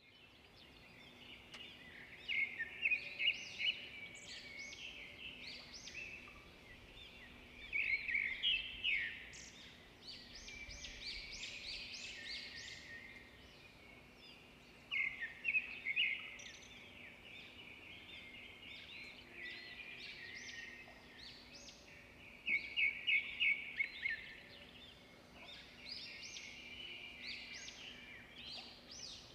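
Bird chirping and calling in loud bouts of quick chirps, about a second or two each and several seconds apart, with quieter twittering between them. A faint steady hum runs underneath.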